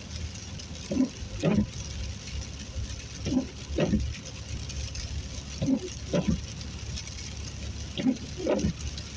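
Windshield wipers sweeping a wet windshield in a regular rhythm, a pair of strokes about half a second apart every two and a half seconds, over a steady low drone of engine and road noise inside the car.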